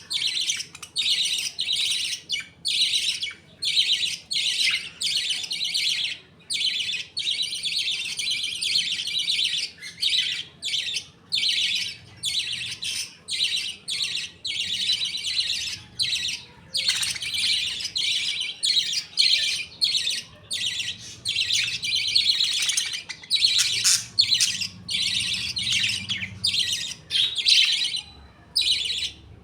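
A flock of budgerigars chirping and chattering without pause, many calls overlapping into a dense, high-pitched twitter broken only by brief gaps.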